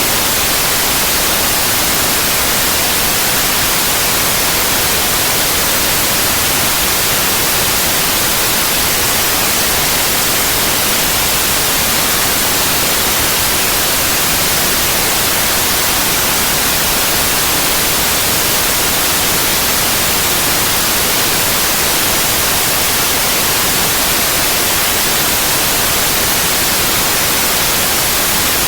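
Synthetic white noise: a steady, loud, even hiss across the whole frequency range, with no change or interruption.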